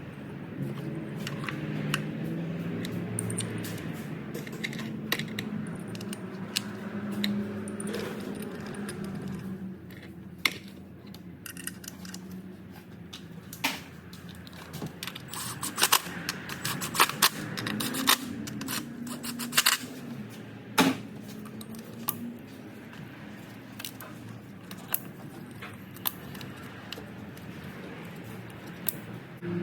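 Metal hand tools and parts clinking and clicking, irregular and densest in the middle, over a low steady hum that is stronger in the first third.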